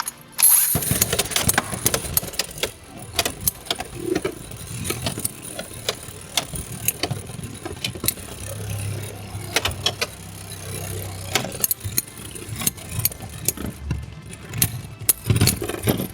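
Two Beyblade X spinning tops launched into a plastic stadium, spinning with a high whir and clashing again and again in sharp clicks and knocks, with stronger hits near the end.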